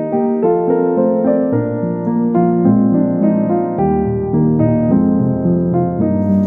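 Soft piano music with slow, sustained notes, the bass moving lower about halfway through.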